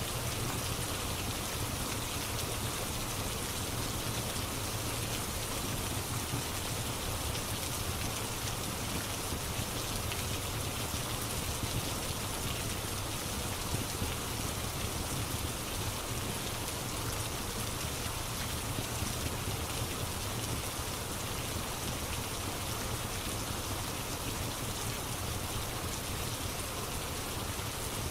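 Steady rain falling, an even hiss of rain on a surface that holds level without breaks.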